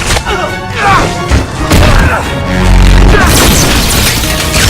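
Film soundtrack of action music with sound effects of hits and crashes, and a deep boom about two and a half seconds in.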